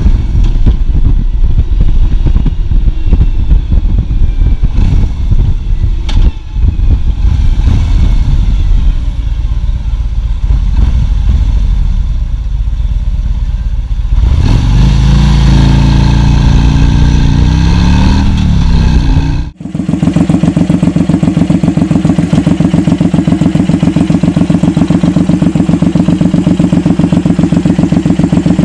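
Big cruiser motorcycle engines: a rough, low rumble, then the engine revved up and down about 14 seconds in. After an abrupt cut about 20 seconds in comes a steady, evenly pulsing idle.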